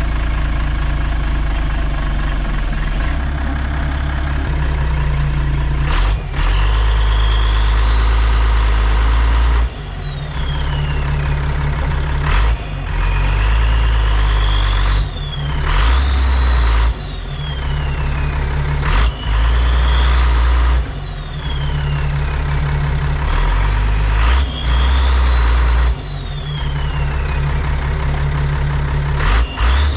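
1987 Ford L8000 turbo diesel truck engine revving again and again. A turbo whine climbs for a few seconds and falls away each time, with abrupt jumps in level in between.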